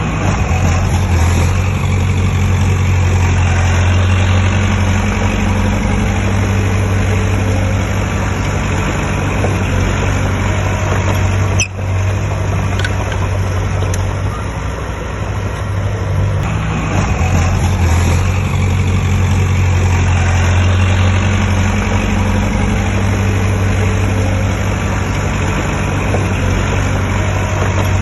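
Heavy diesel engine of earthmoving equipment running steadily, with a brief break about twelve seconds in.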